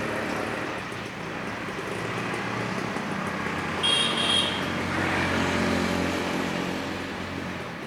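Road traffic: steady vehicle noise, with an engine swelling as a vehicle passes just after the middle, and a short, high double beep about four seconds in.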